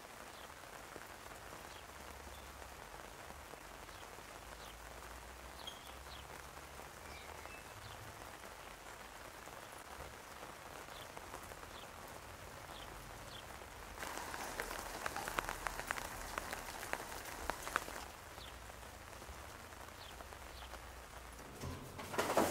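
Steady rain falling, an even hiss of drops. About two-thirds of the way in, it turns louder for some four seconds with a dense patter of close drops, then settles back.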